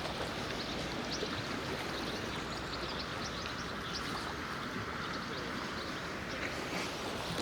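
Water lapping and gurgling at the shore, a steady wash dotted with many small splashes.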